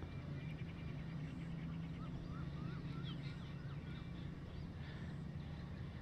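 Faint outdoor bird ambience: scattered distant bird chirps and a short rapid trill early on, over a steady low hum.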